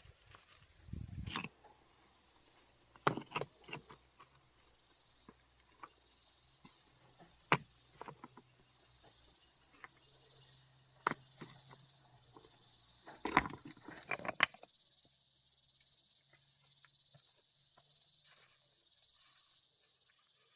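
Steady high-pitched insect drone, typical of crickets, with scattered sharp knocks and clicks over it, several close together about two-thirds of the way through.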